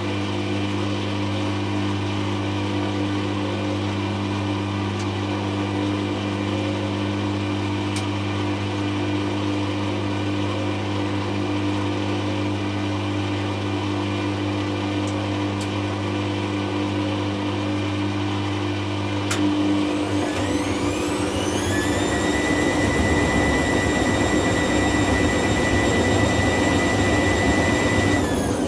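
Hoover Classica 1100 AC164 washing machine in its sudslock spin: a steady motor and pump hum, then about two-thirds through the motor winds up into a rising whine. It holds a steady high whine at the 500 rpm spin speed and begins to fall away right at the end.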